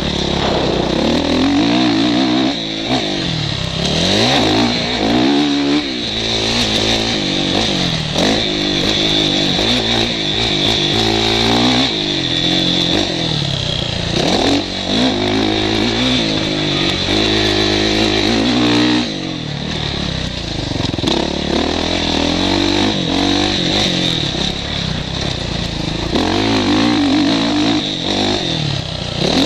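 Motocross bike engine heard from a helmet camera, revving up and dropping back over and over as the rider accelerates and shuts off through the track's sections, with a short lull around two thirds of the way through.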